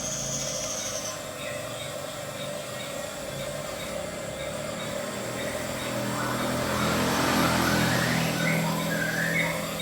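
Radio-controlled model bulldozer running with a steady mechanical hum, its drive getting louder from about six seconds in as it works.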